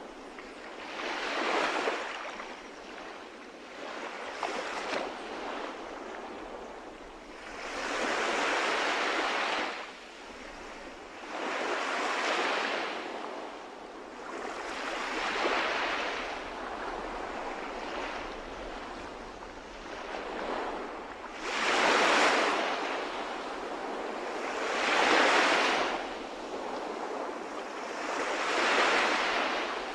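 Calm sea waves washing onto the shore, each wave a swell of surf noise that rises and falls away, one every three to four seconds, the last few a little louder.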